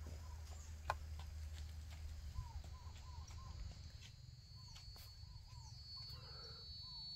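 Faint bird calls around a farmyard: short rising-and-falling notes repeated in runs of two to four, with a few sharp clicks and a thin steady high whine from about two and a half seconds in.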